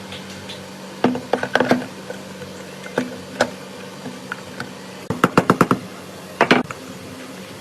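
Short knocks and clicks of tools against metal come in bursts, including a quick run of about eight strikes a little after the fifth second, over a steady low hum.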